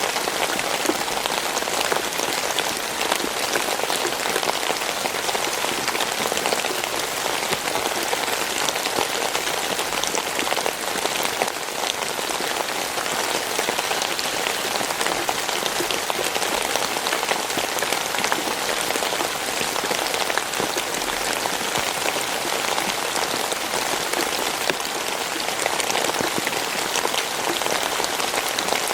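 Steady rainfall, a dense even patter of drops hitting a surface, with no change in intensity.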